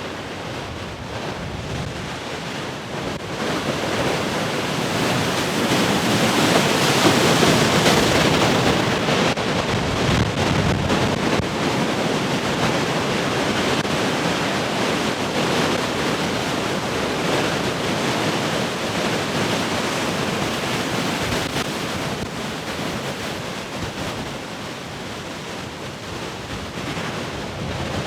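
Heavy ocean surf: a big wave breaks and washes in, swelling to its loudest a few seconds in, then the rush slowly eases off before the next wave builds near the end.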